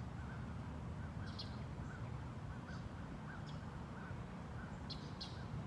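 Faint outdoor birdsong: a small chirp repeating every half second or so, with a few brief higher notes, over a steady low rumble of outdoor ambience.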